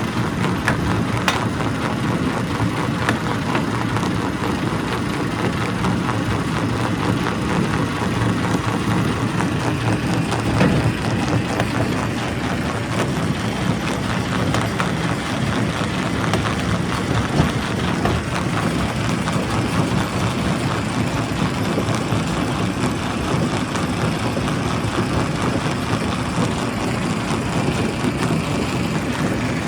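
Primary rock crusher running steadily, a dense low mechanical noise, with a few sharp knocks of stone breaking, the loudest a little past the middle.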